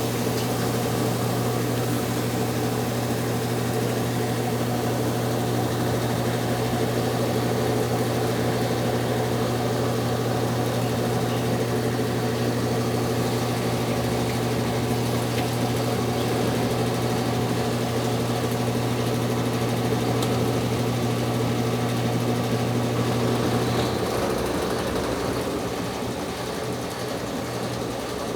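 Brastemp 9 kg washing machine running with a steady motor hum, draining and spinning near the end of its cycle. The hum cuts out about 24 seconds in, leaving a quieter whir.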